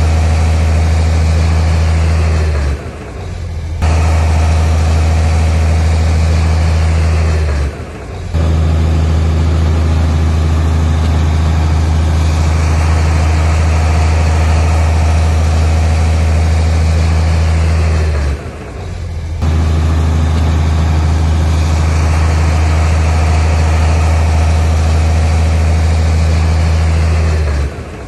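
Heavy diesel engine of earthmoving machinery running steadily with a deep, even drone. The sound drops away briefly three times, each dip lasting about a second.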